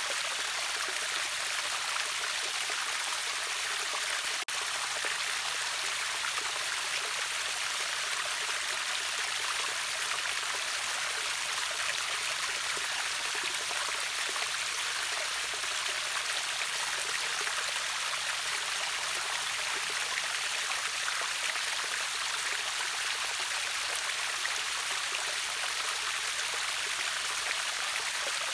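Steady rush of river water falling over a waterfall, an even hiss-like wash with no breaks, save one split-second dip about four and a half seconds in.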